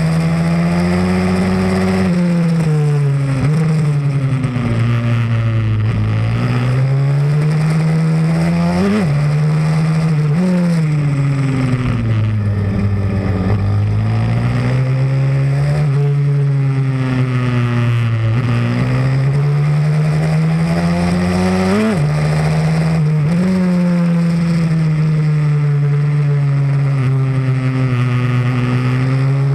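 Pit bike's single-cylinder four-stroke engine running hard on track, its pitch repeatedly falling and rising again as the rider slows for corners and accelerates out. Brief sharp jumps in revs come every few seconds.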